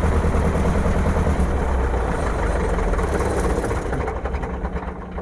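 ERCO Ercoupe's four-cylinder air-cooled piston engine and propeller idling, then being shut down: the sound thins out about three seconds in and the engine runs down to a stop near the end.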